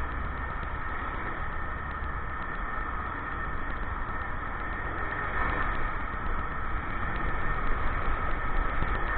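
Motorcycle running while being ridden: a steady engine rumble with road noise, growing louder near the end.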